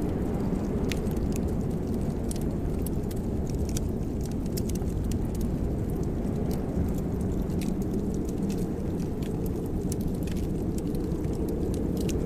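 Wood fire in a fireplace crackling, with scattered sharp little pops over a steady low rumble.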